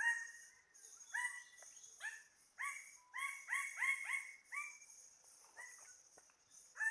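A series of short, loud animal calls with a clear pitch, about a dozen, coming in a quick run in the middle, over a steady high-pitched background drone.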